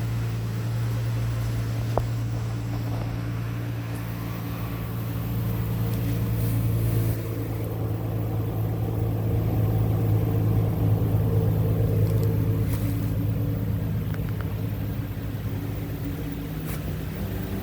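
2007 Ford Mustang's 4.0-litre V6 engine running steadily at idle, with its level swelling slightly a couple of times.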